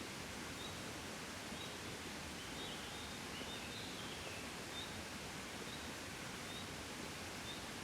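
Soft, steady wind blowing in a gentle breeze, an even rustling hiss. Faint short high chirps repeat about once a second over it.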